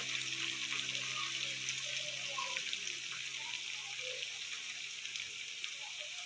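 Marinated chicken kabab pieces deep-frying in hot oil in a pan: a steady sizzle with scattered small crackles.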